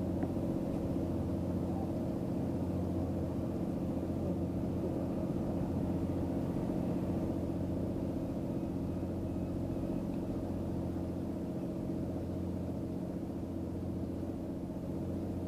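An engine idling at one steady pitch, a constant low hum.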